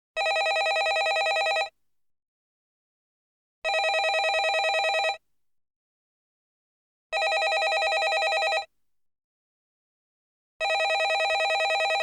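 Landline telephone bell ringing: four rings of about a second and a half each, evenly spaced about three and a half seconds apart, each with a fast rattling flutter.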